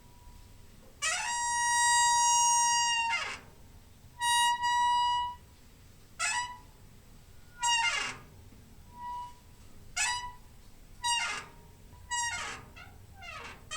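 Door hinge squeaking over and over: a long, steady, high squeak held for about two seconds, a shorter one, then a run of brief squeaks, several of them sliding down in pitch.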